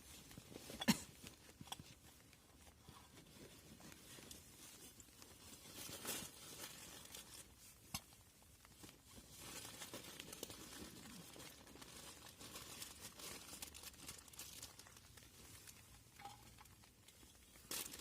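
Quiet, irregular rustling and crinkling of plastic packaging being handled, with a few small sharp clicks and knocks, one of them about a second in.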